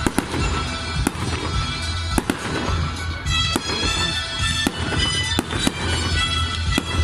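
Aerial fireworks shells bursting: an irregular string of sharp bangs, roughly two a second, with music playing alongside.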